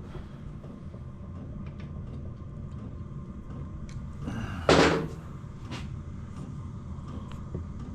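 Workshop handling noise from an engine strip-down: faint small ticks of parts being handled, and one loud sharp clunk about halfway through, as of a metal part or tool being set down, over a steady low background rumble.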